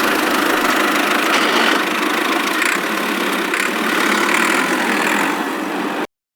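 A motor running steadily, cutting off suddenly near the end.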